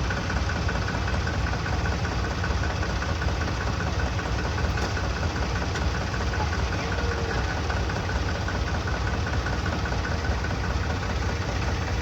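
Farmtrac tractor's diesel engine running steadily, with no rise or fall in speed.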